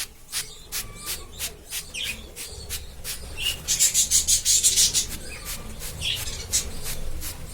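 Hand trigger spray bottle squeezed over and over, clicking about three to four times a second, with a burst of hissing mist near the middle. Budgerigars chirp now and then.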